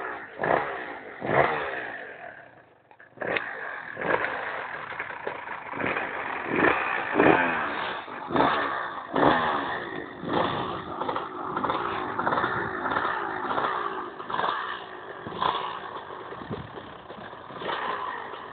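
Motocross bike engines revving in repeated sharp blips, the pitch sweeping up and down. The sound falls away about two to three seconds in, then picks up again and keeps revving.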